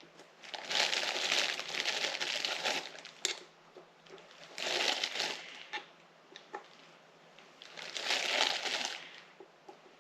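Plastic packaging crinkling in three bursts, the first about two seconds long, with small handling clicks between them, as new seals from a gasket kit are unwrapped.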